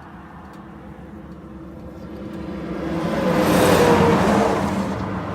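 A vehicle passing on the nearby road: its tyre and engine noise swells to a peak about four seconds in and fades, the engine tone dropping in pitch as it goes by.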